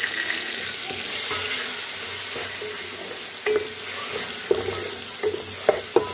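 Chopped tomatoes sizzling in hot oil with fried onions and green chillies, stirred in a metal pot with a wooden spoon. From about halfway in, the spoon knocks and scrapes against the pot several times.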